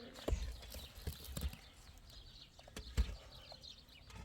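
A few dull, irregular knocks and thumps, the loudest about three seconds in.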